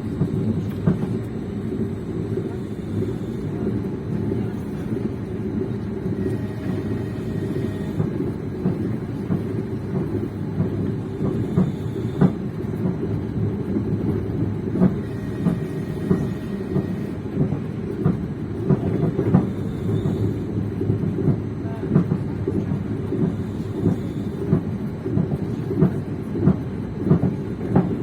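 Train wheels rolling over the rails: a steady low rumble with the clickety-clack of wheels over rail joints, the knocks falling into a regular beat near the end.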